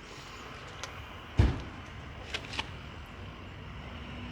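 A single heavy thump about a second and a half in, with a few lighter clicks, over a steady low background rumble.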